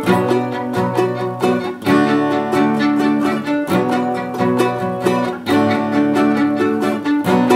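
Instrumental music: plucked strings, ukulele or guitar-like, strumming in a steady rhythm with a bowed string line over it.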